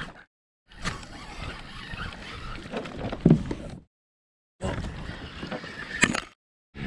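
Water sloshing against a fishing kayak, with a couple of sharp knocks, heard in short clips that cut abruptly to dead silence between them.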